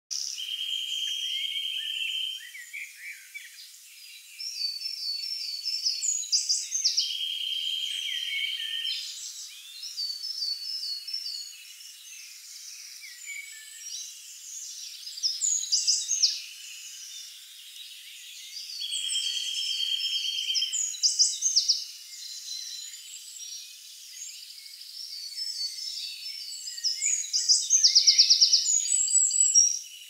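Several forest songbirds singing together: a dry, even trill about two seconds long recurs several times, with quick high chirping phrases from other birds between and over it.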